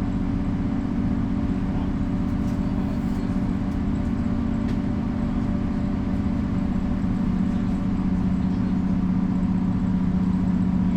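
Mercedes-Benz O405 bus's inline-six diesel engine running under way, heard from inside the bus: a steady low drone that grows a little louder and settles into an even hum in the second half.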